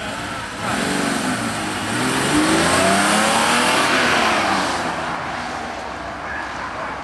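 BMW saloon accelerating hard from a standstill, its engine note climbing in several rising sweeps through the gears, then fading as the car drives away down the course.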